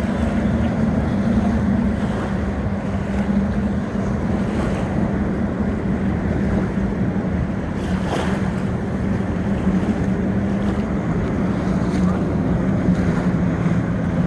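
Boat engine running steadily with a low hum, over the wash of waves and wind buffeting the microphone.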